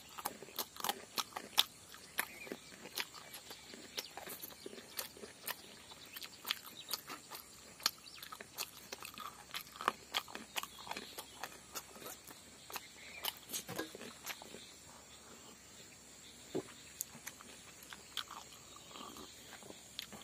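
A person chewing and crunching food, with many short, irregular crunches.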